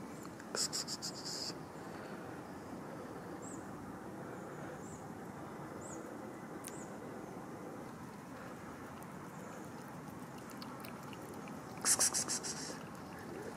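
A bird's rapid rattling chatter, heard twice, each time for about a second: once just after the start and once near the end. Faint short high chirps come between them over a steady outdoor background hum.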